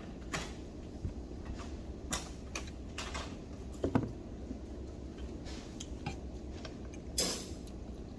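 Cutlery clinking against plates and dishes in scattered light clicks over a steady low background hum, with one louder clatter near the end.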